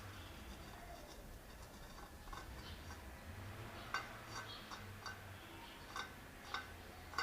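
Cats chewing tuna: irregular wet smacking clicks, a few at a time, growing more frequent in the second half.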